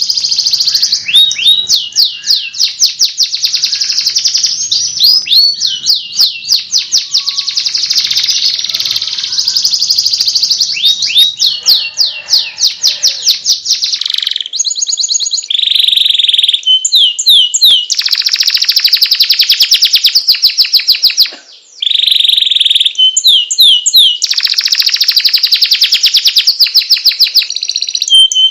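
Domestic canary singing: long, fast trills and rolls of rapidly repeated notes, with a short pause about three quarters of the way through.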